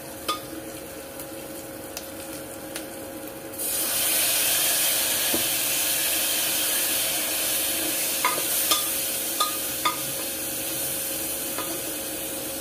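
Onion and spice masala frying in the oil of a pressure cooker, stirred with a metal spoon; about three and a half seconds in, a splash of water hits the hot masala and it sizzles loudly with a steady hiss and steam. A few spoon scrapes against the pot come near the middle. The water is added to keep the spices from burning while they fry.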